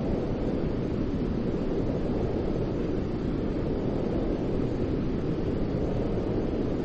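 Steady white noise for lulling a baby to sleep: an even, deep rushing hiss, heavy in the low range, with no changes.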